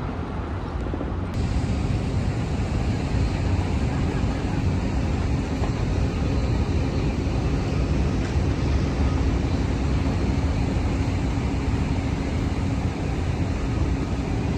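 Steady outdoor city ambience: a low rumble of distant traffic or engines with no distinct events, a little louder from about a second in.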